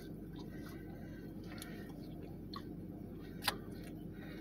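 Close-up chewing of crispy fast food, with small wet mouth clicks and one sharper click about three and a half seconds in, over a steady low hum.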